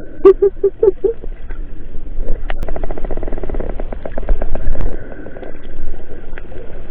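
Spinner dolphins vocalising underwater: a quick series of short squawking pulses, then rapid click trains running for several seconds, with a faint high whistle held in the background.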